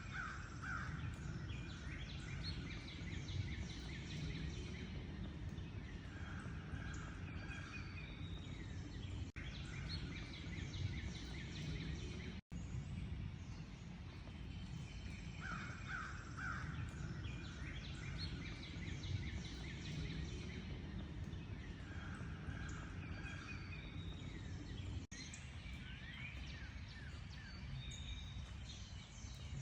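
Several birds calling and singing together, short chirps and trills overlapping, over a steady low background rumble. A brief dropout cuts the sound about twelve seconds in, and the same stretch of calls repeats about halfway through.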